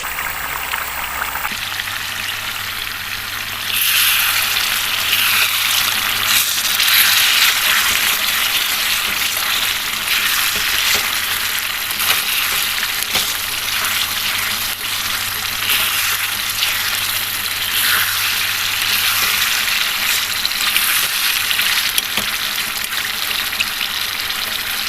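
Chicken pieces sizzling steadily in hot oil and spice paste in a cooking pot, the sizzle growing louder about four seconds in.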